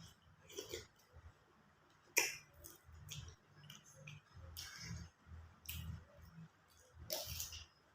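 Close-up mouth sounds of a person eating raw shrimp in fish sauce: uneven chewing with wet lip smacks and clicks, about two a second, and a sharp smack about two seconds in.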